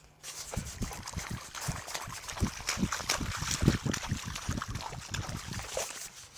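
Feet stomping and splashing in a muddy rain puddle, a quick run of wet thumps about three a second that dies away near the end.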